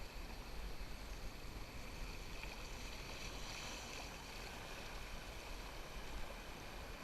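River water running around a moving canoe: a steady rushing hiss with a low rumble underneath.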